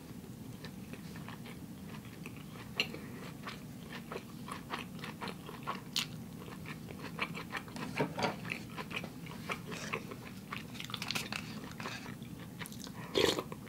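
Close-miked chewing of a sushi roll: many short, wet clicking and crunching mouth sounds, with a louder noise near the end.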